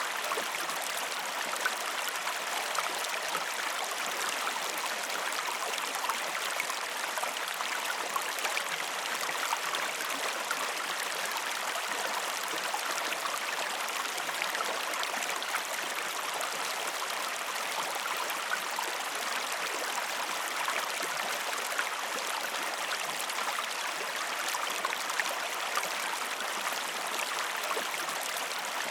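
River water flowing steadily, a continuous babbling rush with small splashy flickers and no change in level.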